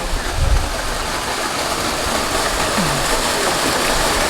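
Switzer Falls waterfall pouring steadily into its pool, a constant rush of falling water.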